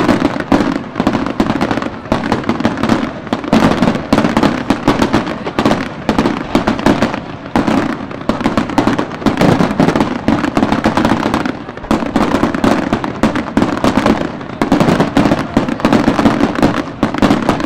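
Fireworks display: a dense, continuous string of cracks and bangs that comes in loud surges a few seconds apart.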